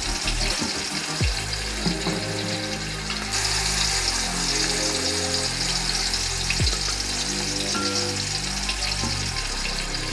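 Chicken and masala frying in a clay pot with a steady sizzle while being stirred, under background music with low notes.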